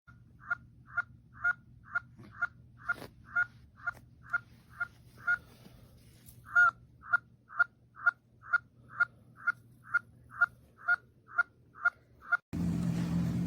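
Interactive baby monkey toy's electronic voice repeating the same short chirp about two times a second, with a break about halfway through. Near the end it cuts to a steady low hum and hiss.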